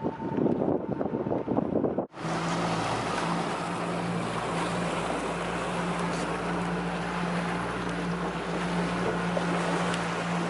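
Motorboat under way: a steady low engine hum under a constant rush of wind and water. About two seconds in, a cut replaces a more uneven, gusty stretch with this steady run.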